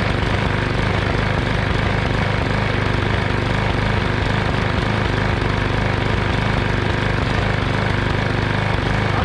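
Small single-cylinder lawn mower engine with a bent crankshaft running steadily at a low idle, a continuous even drone with no change in speed.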